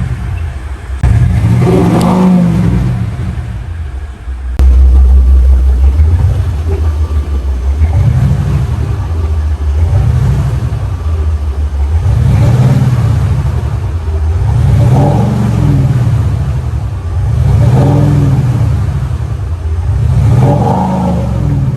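Maserati 3.0 V6 turbodiesel revved in a series of blips, about seven, each rising and falling in pitch a couple of seconds apart. The active sound exhaust, now fitted with new Kicker marine speakers, plays a synthetic V8-style note that follows the revs.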